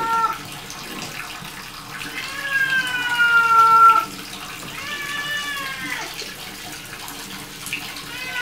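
Domestic cat meowing in distress while being bathed: two long, drawn-out meows, the first nearly two seconds and sliding slightly down in pitch, the second shorter, over the sound of running water in a bathtub.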